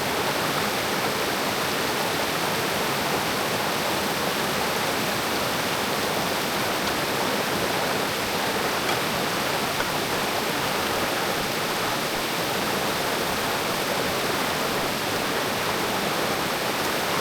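Mountain creek rushing: a steady, even wash of running water.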